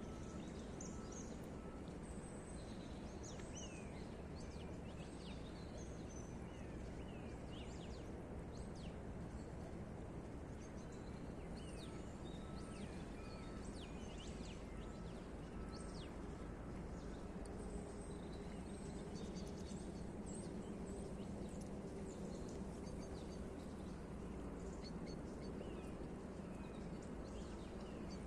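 Many small birds chirping throughout, short high calls and quick falling notes, over a steady low background noise.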